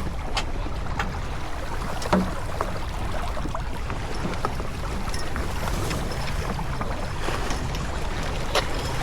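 Wind buffeting the microphone and water rushing along the hull of a J24 sailboat under way, a steady rumble and hiss. Scattered sharp knocks and clicks come from deck gear, the loudest about two seconds in.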